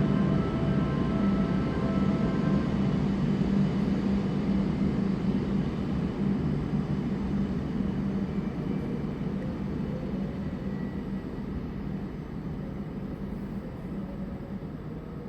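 Shinkansen train running at the platform with a steady low rumble, a few steady motor tones over it at first, slowly fading away.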